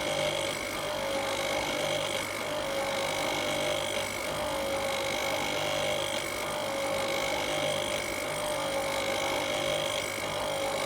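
Nespresso Inissia capsule machine's pump running while it brews: a loud, steady hum that starts abruptly.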